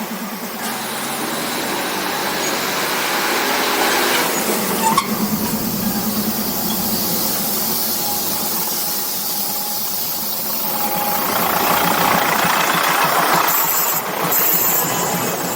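Diesel railcar train running slowly along the track, its engine humming under the clatter of the wheels, with a high wheel squeal near the end.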